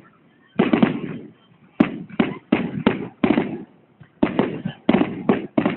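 Fireworks display shells bursting in quick succession, about a dozen booms each trailing off.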